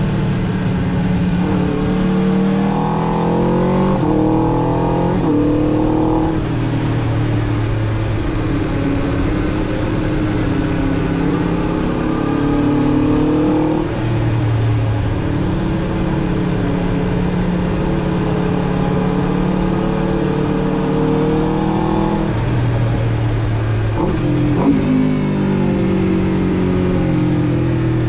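Aprilia RSV4 RR's V4 engine through its stock exhaust, pulling through a run of quick upshifts in the first few seconds, then cruising at a steady pitch, and accelerating up through the gears again near the end. A brief sharp click is heard about two-thirds of the way through.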